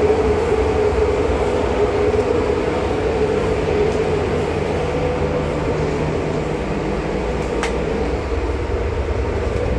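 Steady drone of a car ferry under way, its engines rumbling low with a constant hum, heard from inside the ship.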